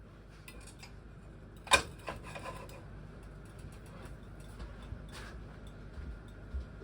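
Light scattered ticking and clicking from a pan heating on the stove, with one sharper click about two seconds in.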